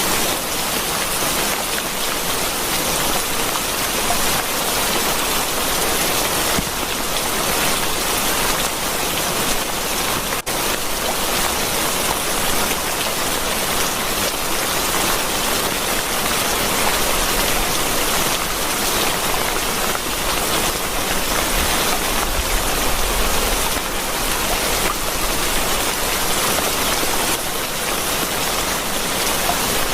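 Steady rain falling, an even dense hiss of drops, with a momentary dip in level about ten seconds in.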